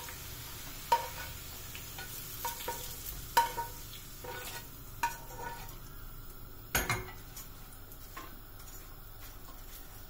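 Potato fries sizzling in hot oil in a frying pan, while a utensil knocks against the pan about ten times, several knocks ringing briefly. The loudest knocks come about three and a half and seven seconds in.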